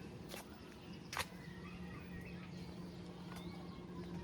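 Outdoor ambience: a steady low hum, faint high chirps, and two sharp clicks, the louder one about a second in.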